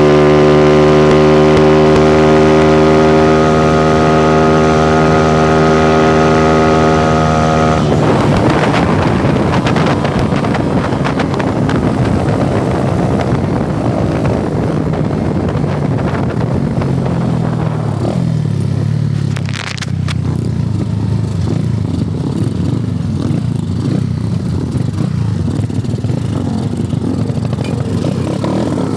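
Honda CG single-cylinder four-stroke motorcycle engine held at steady high revs while riding. About eight seconds in the throttle is eased off and the note drops into a rougher, lower engine sound mixed with rushing noise.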